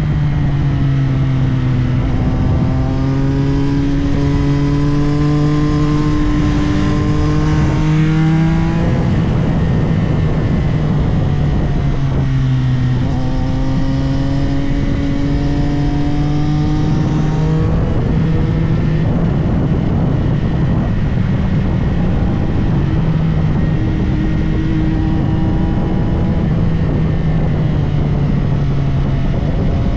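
CFMOTO 675SR-R inline-triple engine accelerating hard: its pitch climbs in two long pulls and drops sharply at each upshift, then it runs more steadily with one shorter climb near the end.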